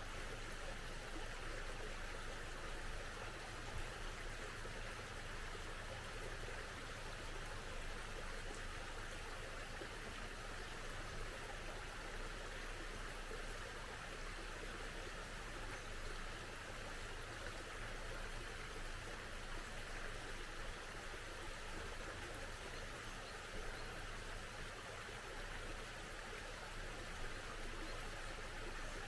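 A small mountain stream flowing with a steady, even rush of water.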